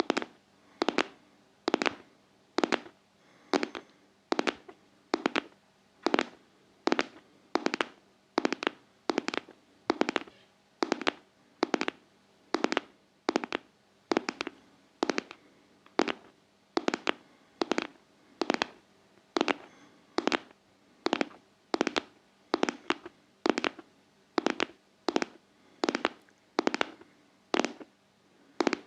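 Steady ASMR tapping on a heart-shaped object: sharp, close-miked knocks at an even pace of a little more than one a second, over a faint steady hum.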